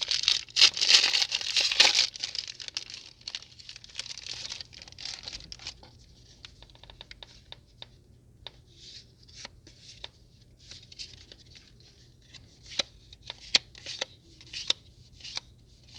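Foil booster pack crinkling and tearing open, loud for the first couple of seconds, then trading cards being handled and slid over one another in a string of soft flicks and clicks.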